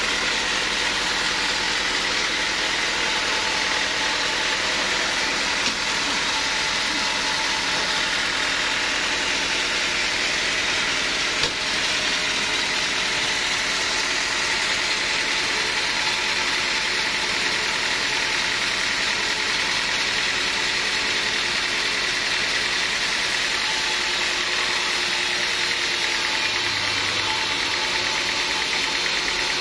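Sawmill machinery running steadily: a constant mechanical drone with a hiss over it.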